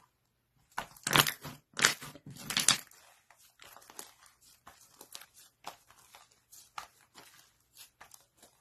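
Slime being squished and kneaded by hand, with sticky crackling and popping: a few loud squelches in the first few seconds, then softer scattered pops.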